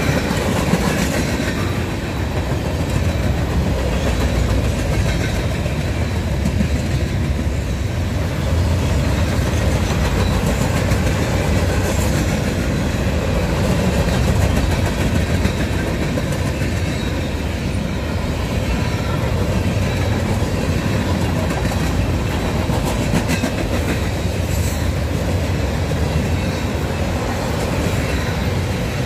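A CSX manifest freight train's tank cars and covered hoppers rolling steadily past: a constant rumble of steel wheels on the rails.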